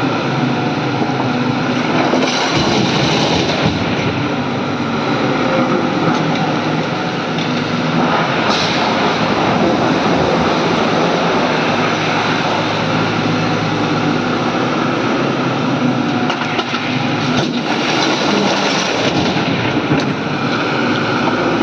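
Hydraulic excavator's diesel engine working hard and steady while it digs and loads, with occasional hissing swells and a sharp crack late on.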